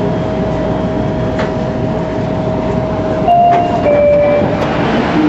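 Metro-Cammell (MLR) electric multiple unit heard from inside the carriage while moving slowly: a steady running rumble with a thin steady whine, which steps up and then down in pitch a little past halfway and stops soon after, as the sound grows slightly louder.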